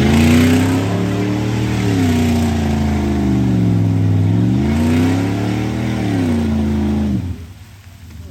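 Mud truck on 44-inch tires with its engine revving hard under load. The pitch climbs, sags and climbs again as the throttle is worked, then the engine falls back sharply about seven seconds in.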